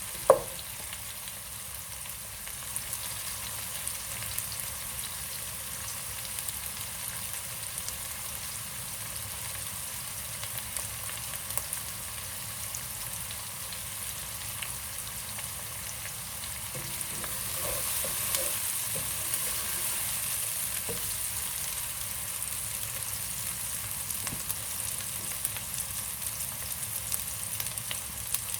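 Sliced onions frying in hot oil in a pan, a steady sizzle that swells a little about two-thirds of the way through, with scattered small clicks from stirring and one sharp knock right at the start. The onions are being browned to golden.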